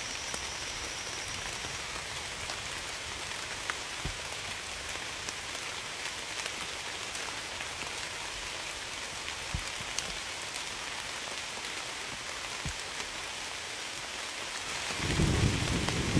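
Steady rain falling, a dense hiss with occasional single drops ticking close by. Near the end a low rumble of thunder rises and grows louder.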